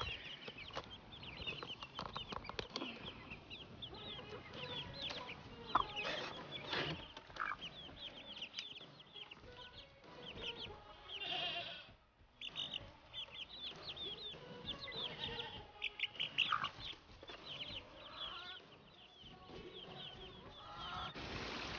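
Chickens clucking amid many short, high bird chirps, with a few knocks and rustles; the sound drops out briefly about halfway through.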